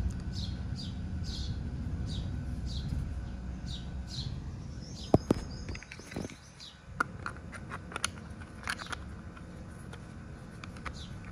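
A bird calling over and over, a short high chirp falling in pitch about twice a second, which stops about halfway through. From then on there are several sharp clicks and knocks from plastic pressure-washer parts being handled, the loudest about five seconds in, over a low rumble of handling noise.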